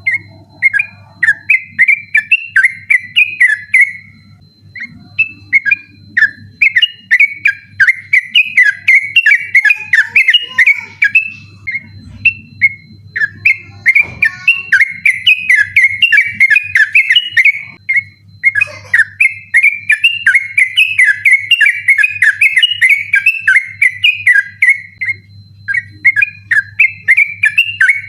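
Yellow-vented bulbul (trucukan) singing a fast, continuous chattering 'ropel' song in long runs of quick warbled notes, broken by a few brief pauses. A steady low hum sits underneath.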